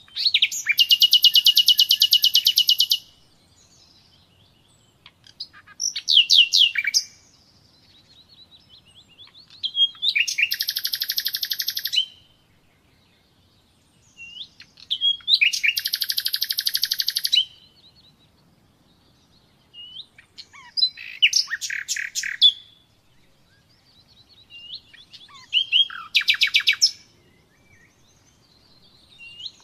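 Common nightingale singing: a series of separate song phrases, each a fast run of rapidly repeated high notes lasting one to three seconds, with short pauses between phrases.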